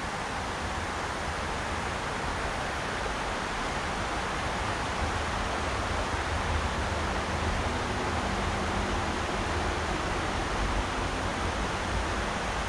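River water rushing steadily, an even hiss with a low rumble underneath.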